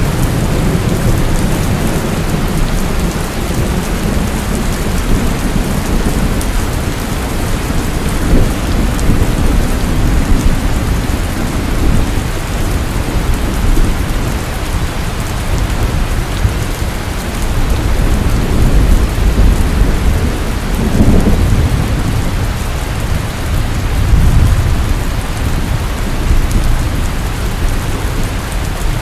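Heavy rain falling steadily, with deep rolling thunder rumbling underneath that swells near the start and again about two-thirds of the way through.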